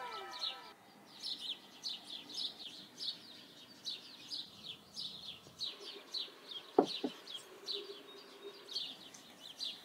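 A small bird chirping over and over: short, high chirps that fall in pitch, about three a second. About seven seconds in, a short, louder double swoop cuts across it.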